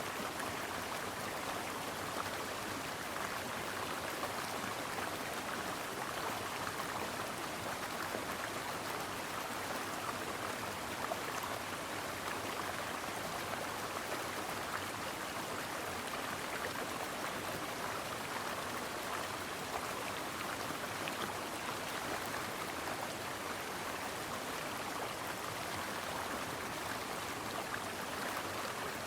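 Stream water running over rocks: a steady, even babble of flowing water with no change or break.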